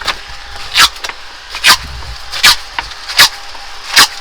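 Tape being pulled off the roll in short, loud rips, about one every 0.8 s, as it is wound half-overlapped around an air conditioner's refrigerant pipe bundle.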